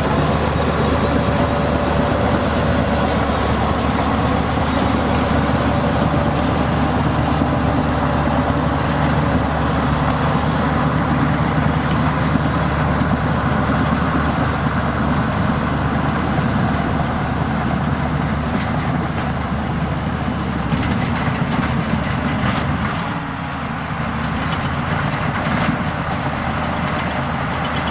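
Heavy diesel earthmoving machinery running steadily, with scattered knocks in the second half and a brief dip in engine level about two-thirds of the way through.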